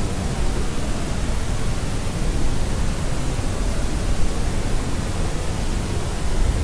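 Steady white noise for sleep: an even, unchanging hiss with more weight in the low end.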